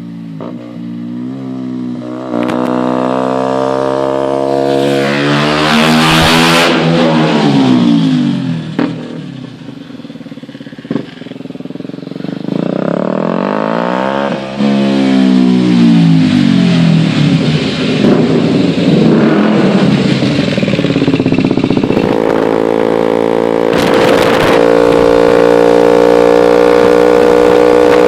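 KTM Duke 125's single-cylinder four-stroke engine through an open Akrapovic exhaust with the dB killer removed, revving up and dropping back in pitch several times. Near the end it holds a high, steady note that slowly climbs.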